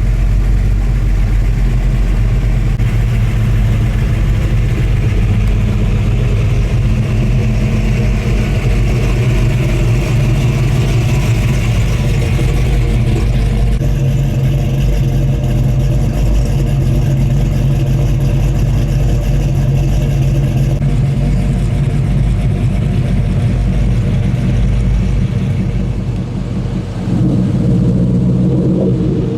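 Car engines running as cars drive slowly past one after another, a steady low engine note that shifts partway through, with a brief dip and a different engine coming in near the end.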